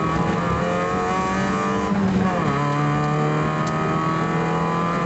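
Fiat Cinquecento rally car's engine accelerating hard under full throttle, heard from inside the cabin. About two seconds in the pitch drops sharply as it shifts up a gear, then climbs steadily again.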